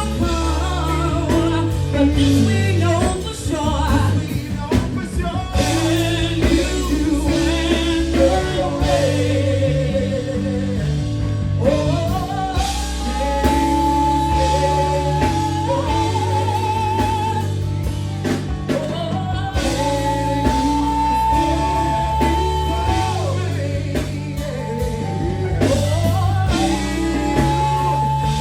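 A woman singing an R&B ballad over a backing of bass, drums and guitar, with several long held notes that waver, the longest in the middle and near the end.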